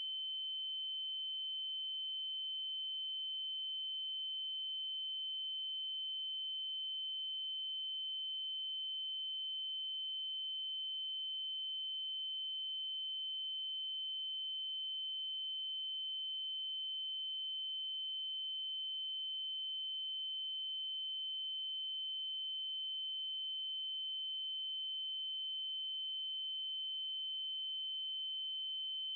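Steady electronic 3072 Hz triangle-wave tone, a single constant high-pitched pitch with faint overtones above it.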